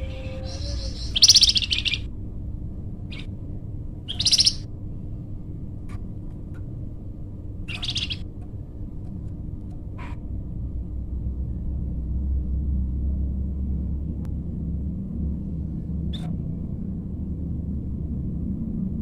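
A flamboyan songbird singing in short high bursts of song. The loudest come about a second in and near four and eight seconds, with a few faint single notes afterwards, over a steady low rumble.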